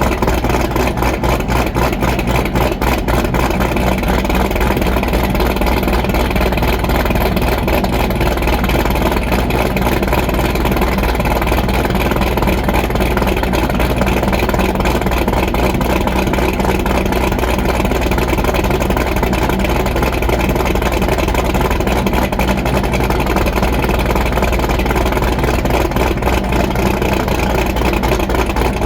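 Chevrolet Corvette C6 Z06's 7.0-litre LS7 V8, fitted with a BTR Stage 3 cam, American Racing headers and Corsa Extreme exhaust, idling steadily after a cold start with the choppy lope of a big cam.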